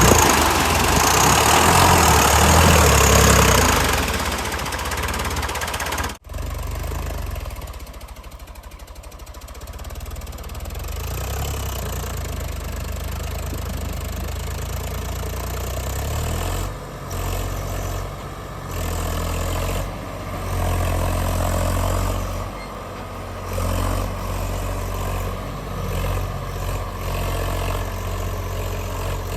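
Heavy diesel engines of earthmoving machinery and trucks running. The engine noise is loud and dense for the first few seconds, breaks off abruptly about six seconds in, then carries on steadier and quieter with a low drone.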